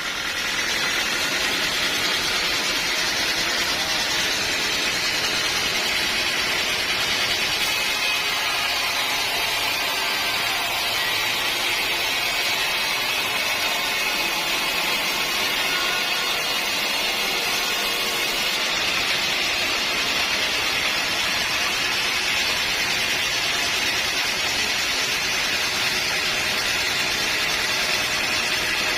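Band sawmill running steadily as its blade cuts through a teak log, a continuous hissing machine noise with no breaks.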